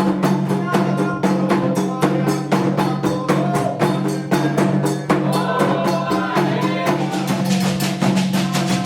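Candomblé xirê music: hand drums and percussion beating a fast, steady rhythm under group singing.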